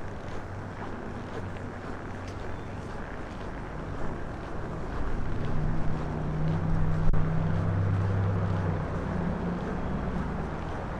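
Strong wind buffeting the microphone, a constant low rumble that the windshield fails to keep out. A low steady hum swells about halfway through and fades again near the end.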